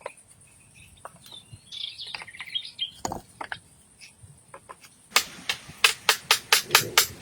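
Scattered light knocks and a brief bird chirping, then from about five seconds in a fast, even run of sharp knocks, about four to five a second.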